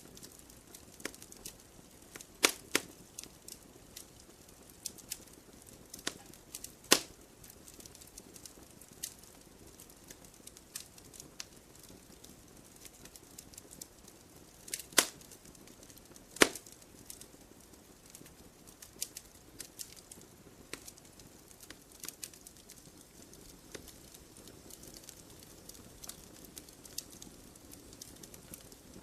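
Wood fire crackling in a fireplace: irregular sharp pops and snaps over a faint low hiss, with four louder pops standing out.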